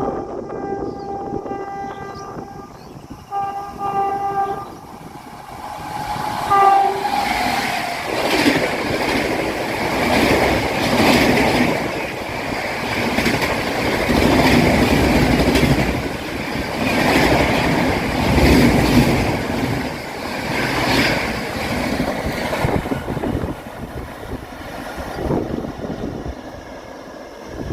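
An Indian express train's horn sounds in long blasts, dipping in pitch as it draws level. The train then rushes past at speed, its wheels clattering rhythmically over the rail joints for about fifteen seconds before fading away.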